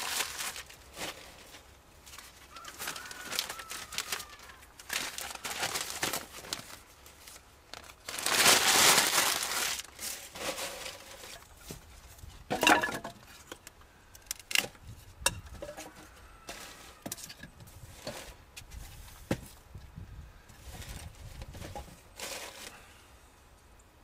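Paper being crumpled and handled to lay a fire in a wood-fired masonry bread oven: irregular crinkling and rustling, loudest about eight to ten seconds in, with a few sharp knocks a little after.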